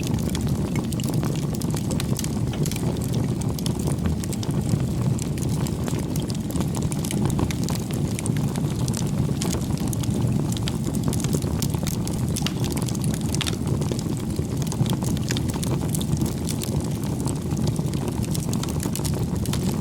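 Bonfire burning: a steady low rush of the flames with frequent sharp crackles and pops from the burning wood.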